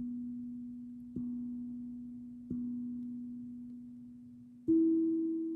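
Spirit drum being played slowly, its notes ringing on as pure sustained tones. One low note is struck three times, about a second and a bit apart, each fading gently, then a higher, louder note is struck near the end.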